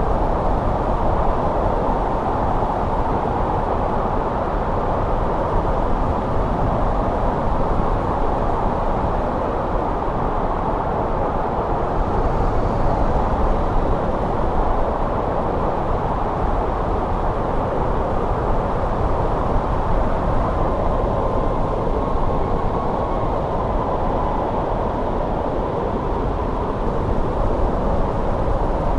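Steady snowstorm wind: a deep, even rush with no distinct gusts or breaks.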